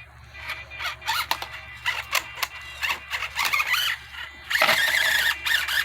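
Electric motor and gear train of a 1/24-scale Enduro24 Sendero RC rock crawler whining in short throttle bursts with wavering pitch as it works to climb slippery rocks. The longest, loudest burst comes near the end.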